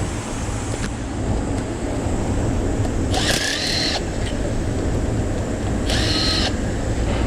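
A power tool runs in two short bursts with a high whine, the first about a second long and the second about half a second, over a steady low rumble.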